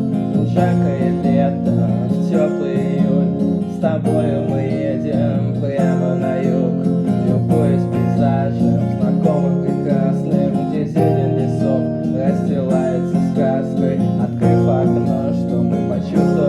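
Song accompaniment of strummed acoustic guitar, with a melody line over the chords.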